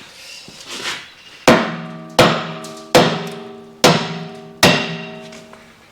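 A big hammer striking the steel parts of a hydraulic winch five times in a steady rhythm. Each blow is sharp and leaves a metallic ring that dies away. The blows are knocking the drum off a pillar bearing that is stuck tight on its shaft.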